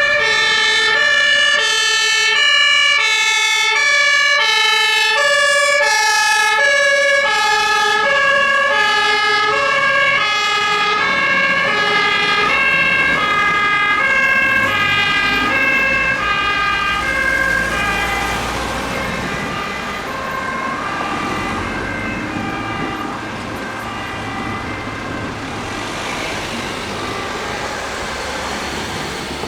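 Emergency vehicle's German two-tone siren (Martinshorn) sounding its alternating high-low call, which fades away over the first half; it is followed by the engine and tyre noise of vehicles passing.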